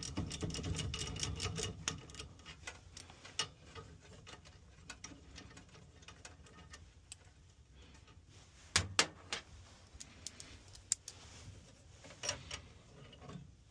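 Small metal clicks and taps from hand tools and screws being handled in a furnace cabinet. A quick run of ticking comes in the first two seconds, then scattered light clicks, with a few sharper knocks past the middle and near the end.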